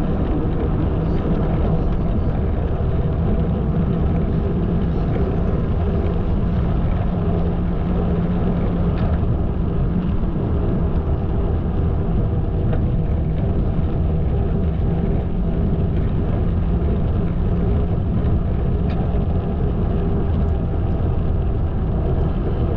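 Steady rumble of a bicycle ride: wind on the microphone and tyre noise, with no break or change.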